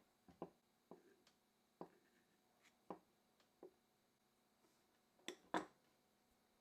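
Scattered light clicks and knocks of small parts and tools being handled during a vintage desk fan restoration, about seven in all, with a louder pair near the end.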